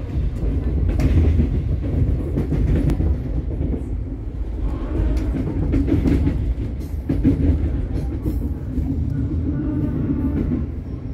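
Passenger train running on the rails, heard from inside the carriage: a steady low rumble with scattered clicks from the wheels.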